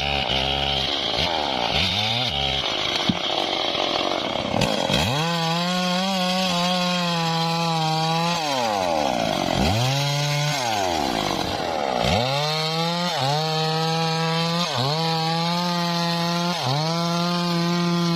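High-revving small engine driving a homemade bandsaw through teak. It revs up and down quickly for the first few seconds, then holds a high steady note that sags sharply and recovers about half a dozen times.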